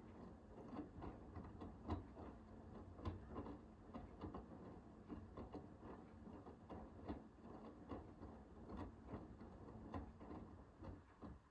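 Hoover H-WASH 500 washing machine drum turning during a Cotton 60 wash, with laundry tumbling in irregular soft knocks and clicks over a low motor hum. The drum stops near the end.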